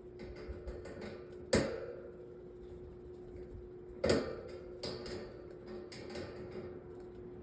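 Flathead screwdriver clicking and scraping in the screw that holds a metal table fan's grille ring, a stubborn screw that is slow to come out. Two sharp metallic clanks that ring briefly, about a second and a half in and again about four seconds in.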